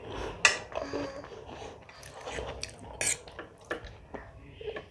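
A person chewing and eating food at close range: irregular wet mouth smacks and sharp clicks, the loudest about half a second in and another about three seconds in.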